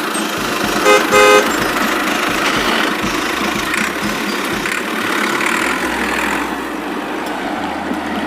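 A vehicle horn gives two short toots about a second in, over a steady engine-like running noise.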